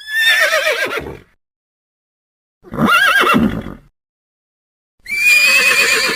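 Horse whinnying three times, each a wavering, quavering call of a second or so, with dead silence between the calls.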